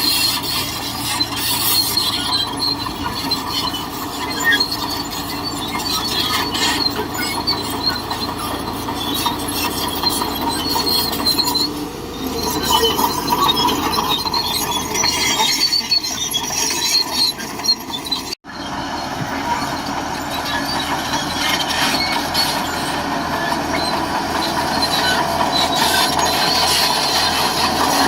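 Shantui DH17C2 bulldozer working, its steel tracks squealing and clanking over the running diesel engine. The sound cuts out for an instant about two thirds of the way through, then carries on.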